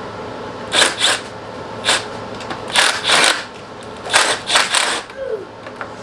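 Short scraping, rustling bursts, several in close pairs, from hands and tools working on the stock intercooler piping as it is taken off.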